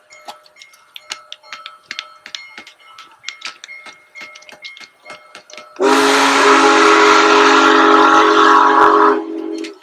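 Steam whistle of the Union Pacific Big Boy steam locomotive: one loud blast of several tones sounding together, with a hiss of steam, starting about six seconds in and lasting about three seconds. Before it comes a faint run of quick ticks and small chime-like tones.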